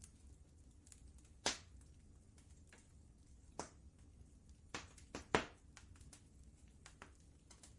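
Wood fire crackling: scattered sharp pops and snaps, the loudest a quick cluster about five seconds in, over a low steady rumble.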